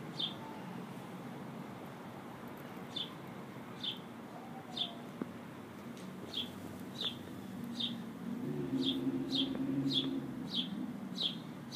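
A small bird giving short, high chirps that drop in pitch, repeated at irregular gaps of about half a second to a second and a half. A faint low drone swells in the background from about eight and a half seconds in.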